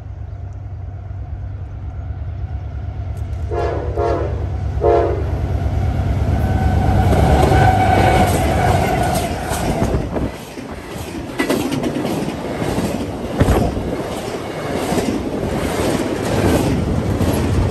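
A CSX diesel freight train approaches and passes. The locomotives' engine rumble builds, with two short horn blasts about four seconds in, and is loudest as the locomotives go by around eight seconds. After that, double-stack intermodal well cars roll past with a rhythmic clickety-clack of wheels over the rail joints.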